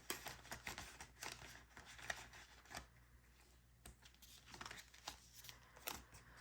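Faint rustling and crinkling of paper bills being handled, with scattered soft taps.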